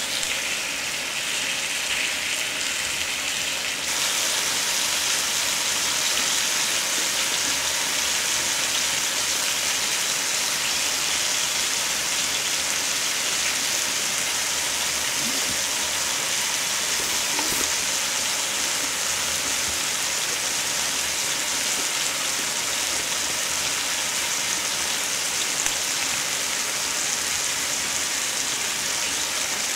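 Marinated duck ribs and sliced king oyster mushrooms sizzling on an electric grill plate: a steady frying hiss that grows louder about four seconds in.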